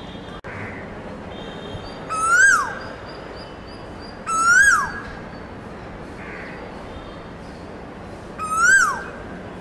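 A bird calling three times, a couple of seconds apart: each call is a loud whistle that rises briefly and then drops sharply in pitch.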